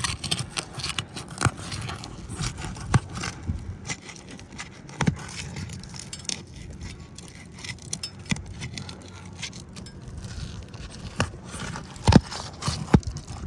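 A roof snake worked under roof shingles, scraping and crackling as it breaks the shingles' sealed bond loose, with irregular sharp clicks and snaps; the loudest snaps come about five seconds in and again near the end.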